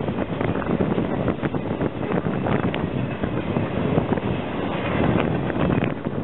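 Loaded flatcars of a freight train rolling past, a steady rumble of steel wheels on rail with many sharp clacks and squeaks, as the end of the train goes by.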